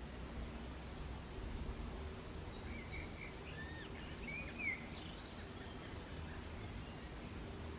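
Small woodland birds calling: a short run of chirps and twitters from about three to five seconds in, over a steady low background rumble.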